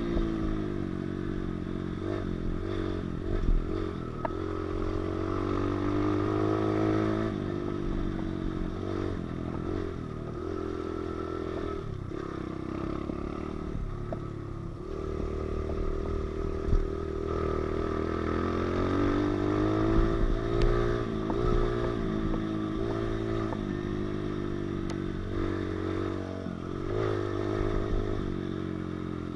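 Pit bike engine running as the bike is ridden, its revs climbing and dropping again and again with the throttle, with a few sharp knocks.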